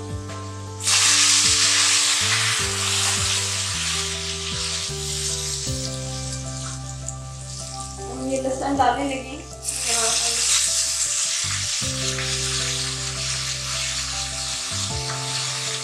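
Onions and whole spices sizzling loudly as they fry in hot ghee in a pressure cooker, stirred with a spatula. The sizzle comes in about a second in, dips briefly around eight seconds, then surges again; a soft background melody runs underneath.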